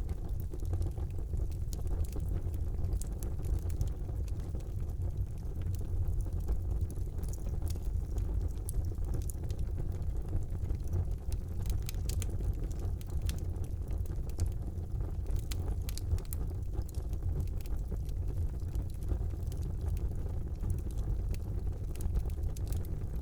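Wood fire burning in a fireplace: a steady low rumble of flame with frequent small crackles and pops scattered throughout.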